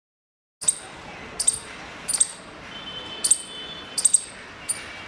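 Indian palm squirrel giving its sharp, high-pitched chirping call, a string of short chips about every two thirds of a second, some in quick pairs. It starts about half a second in.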